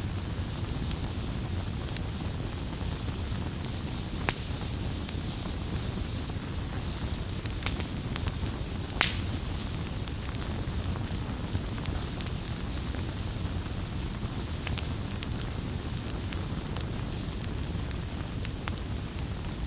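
Campfire burning: a steady low rumble of flames with irregular sharp pops and crackles of burning wood, the loudest pair a little under 8 seconds in and about 9 seconds in.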